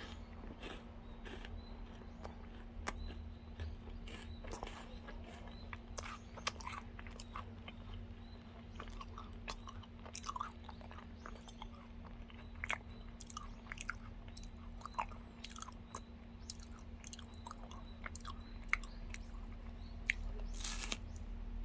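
Close-miked chewing of a Lotte Crunky crisped chocolate bar: irregular small crunches and wet mouth clicks, with a louder crackle near the end. A steady low hum runs underneath.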